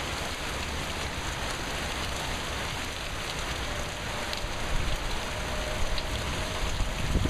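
Heavy thunderstorm rain pouring steadily, with wind gusts buffeting the microphone that grow stronger in the last few seconds.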